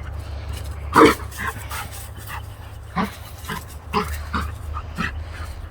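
Puppy giving a series of short, high yips, about eight in a few seconds, the loudest about a second in, over a steady low rumble.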